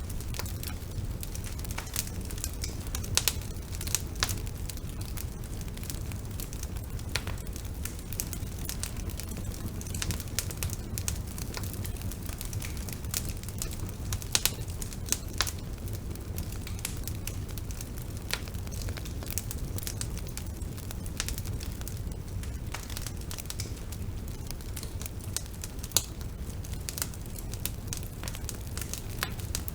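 Bonfire burning: a steady low rumble of flames with irregular sharp crackles and pops of burning wood, a few louder snaps among them.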